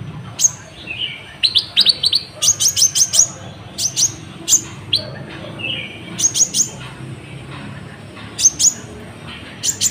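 Kolibri ninja (Van Hasselt's sunbird) singing: sharp, high chirps, singly and in quick runs. The song is filled with learned phrases of the cabak iblis.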